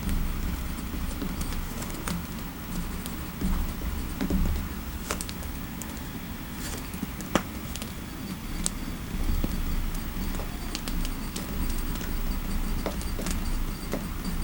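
Fireplace crackling: a steady low rumble of the fire with scattered, irregular sharp crackles and pops.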